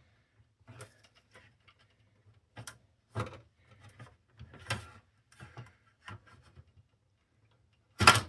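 Scattered light clicks and knocks of parts being handled on a Sony CDP-CX355 300-disc CD changer under disassembly, with a louder knock near the end.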